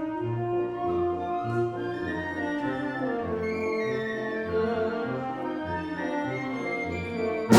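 Community concert band playing a soft passage: held notes in the upper parts over a bass line that moves note by note. The full band comes back in loudly right at the end.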